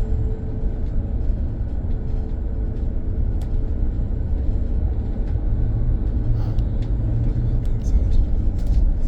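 Steady low rumble of a BYD BD11 battery-electric bus in motion, heard inside the cabin, with a faint thin whine that comes and goes and a few light rattles.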